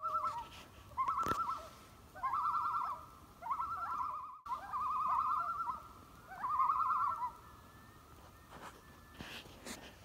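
A bird's wavering, quavering call, repeated about six times and stopping about seven seconds in.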